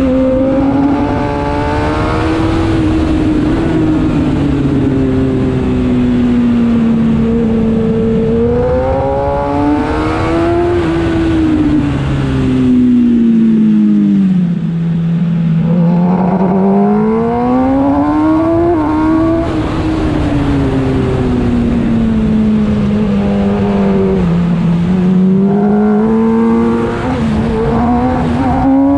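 Kawasaki ZX-10R's inline-four engine at race pace, revs climbing through the gears and falling away on the brakes into corners, then rising again, over a steady rush of wind.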